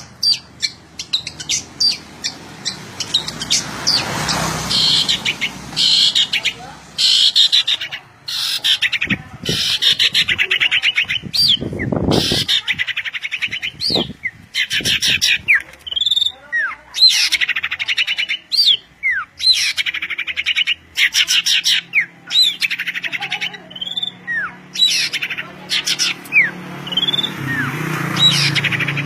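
Songbird singing vigorously and almost without pause: rapid chattering trills alternating with short, sharp whistled notes that glide up and down.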